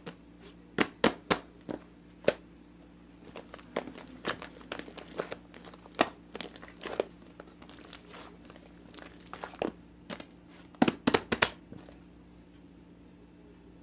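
Irregular crinkling and sharp crackling clicks, as of something like plastic or paper being handled, in clusters that stop about twelve seconds in.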